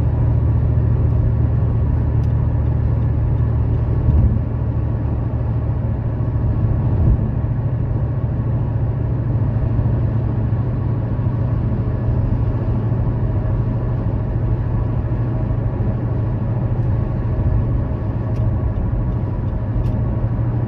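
Car driving at motorway speed: a steady low rumble of engine and tyres on the road, with two brief thumps about four and seven seconds in.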